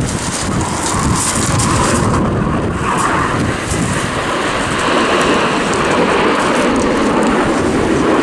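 Steady rushing jet noise from the Red Arrows' BAE Hawk T1 jets flying their display.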